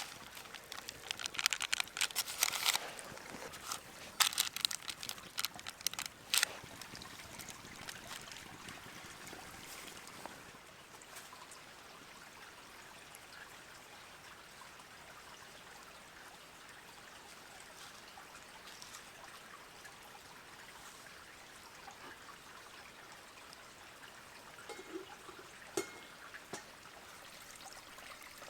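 A small stream trickling steadily. Through the first six seconds or so it is overlaid by a quick run of sharp clicks and crackles, with a few faint knocks near the end.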